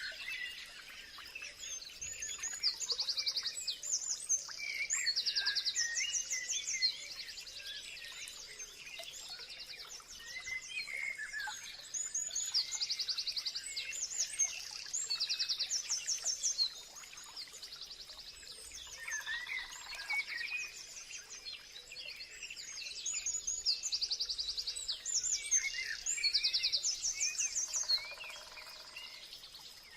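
Several songbirds chirping and singing together, with quick high trills repeated every few seconds over a faint steady high tone.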